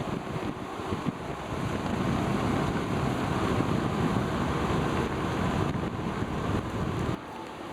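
Wind buffeting the microphone, a dense, gusty rushing that drops off suddenly near the end.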